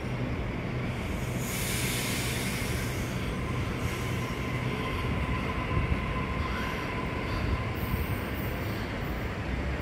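A passenger train running along the platform: a steady rumble of wheels on rail, with a faint thin whine.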